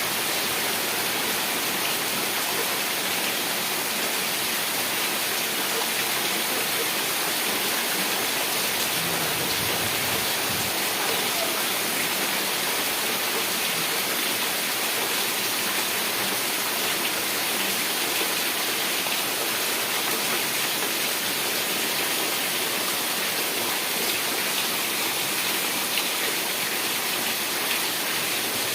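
Heavy rain falling steadily, a dense even hiss of drops with fine patter and no let-up.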